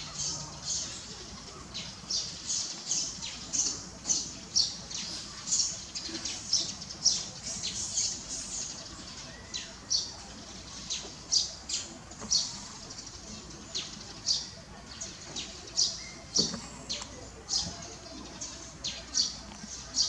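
Small birds chirping: short, high notes repeated about twice a second.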